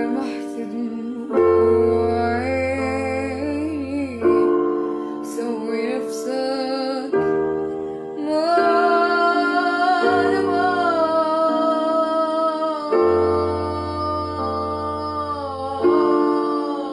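A woman singing a slow, wavering melody over sustained electric piano or keyboard chords that change every couple of seconds.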